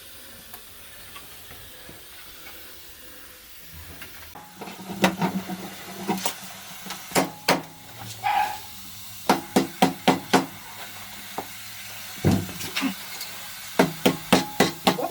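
Irregular sharp knocks and clinks of work with hard objects, about twenty of them, starting about four seconds in after a faint steady background.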